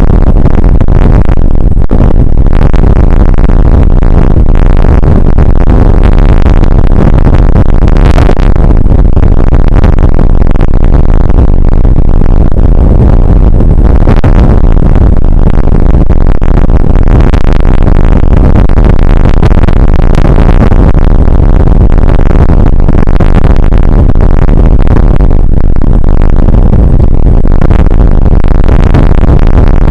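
Loud, constant, heavily distorted noise of rain and wind on an outdoor weather camera's microphone, overloading it.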